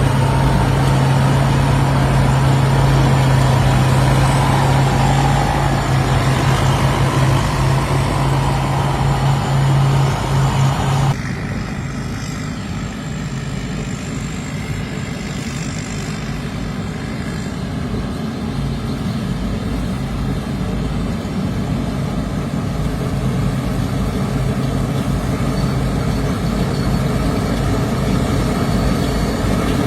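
Worapot Kanchang rice combine harvester running steadily while harvesting, a loud engine hum with steady machine noise. About 11 seconds in the sound suddenly drops in level and loses its high end, then carries on as a quieter, duller drone.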